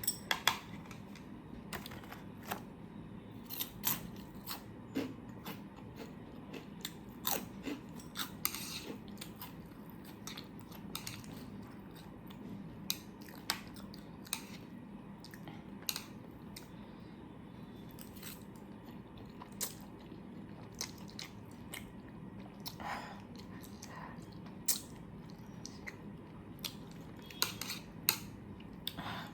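Close-miked chewing and biting: irregular wet mouth clicks and soft crunches as someone eats.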